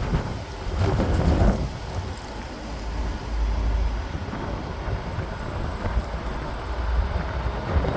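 Strong wind buffeting the microphone: a low rumble that swells and drops in gusts, strongest about a second in and again around three and a half seconds.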